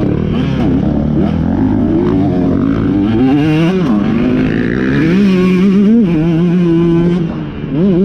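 Off-road racing motorcycle engines revving up and down, the pitch rising and falling with throttle and gear changes. The revs hold steady for a couple of seconds after the middle, then dip briefly and climb again near the end.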